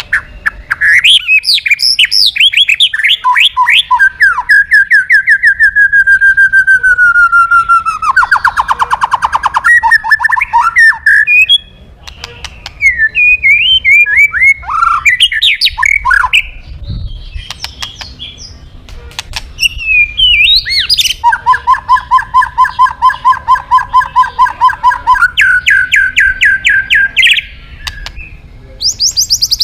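A white-rumped shama (murai batu) singing energetically, with a varied song of fast trills, runs of rapidly repeated notes, falling whistles and buzzy harsh phrases, broken by short pauses between phrases. The song is packed with mimicked phrases ('isian').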